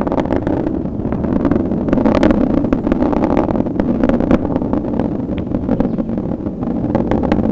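Atlas V rocket engine roar during powered ascent with its solid rocket boosters still burning: a steady deep rumble with irregular crackling.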